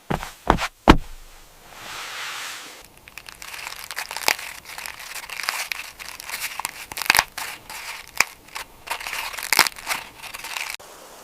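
Crinkling and crackling handling noise, irregular snaps of dry material, with a few sharp clicks in the first second. It stops abruptly shortly before the end, giving way to a steady hiss.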